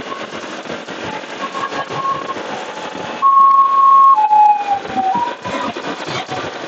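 Wind and road noise from riding a motorcycle in traffic. About three seconds in, a loud shrill tone is held for about a second, then a lower tone slides down, with a short higher note after it.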